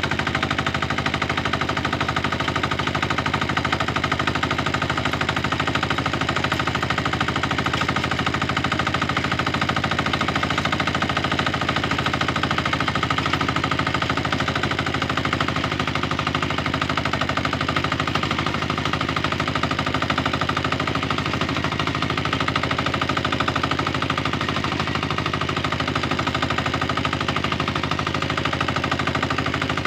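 Tractor engine running steadily in a rice paddy, with a fast, even chugging that does not change.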